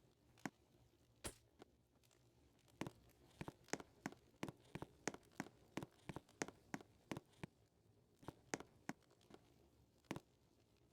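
A series of sharp, faint clicks and cracks. They are scattered at first, come about three a second through the middle, then thin out again near the end.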